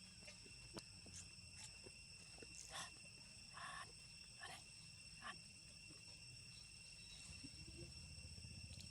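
Faint forest ambience: a steady high-pitched insect drone, with a few short, faint calls and light clicks in the middle.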